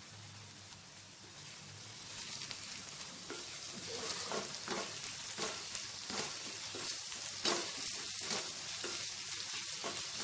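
Chopped onions, green chillies and ginger-garlic paste sizzling in hot oil in a kadai, stirred with a spatula in repeated strokes. The sizzle grows louder about two seconds in.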